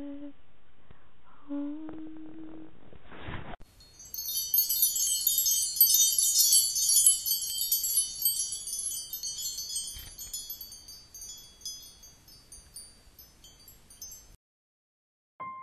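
Wind chimes tinkling, many overlapping high bright notes, loudest at first and gradually dying away until they stop about fourteen seconds in. Before them a woman's hummed tune ends in the first seconds, followed by a brief whoosh.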